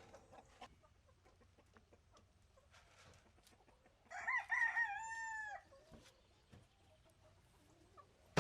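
A rooster crowing once, a wavering call that holds and then drops away. Faint clicks around it, and a sharp knock right at the end.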